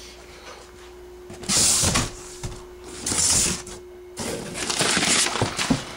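Packaging being cut and torn open with a knife and scissors: three loud spells of rustling and ripping, the longest near the end.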